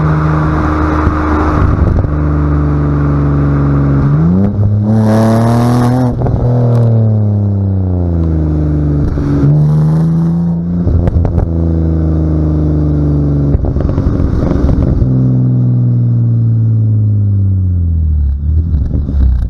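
A BMW Z4 3.0i's three-litre straight-six running through an aftermarket Remus exhaust with the secondary catalytic converters removed, on the road. It accelerates hard about four seconds in with the pitch climbing steeply, drops back, pulls up again, and then settles and eases off with the pitch sinking slowly toward the end.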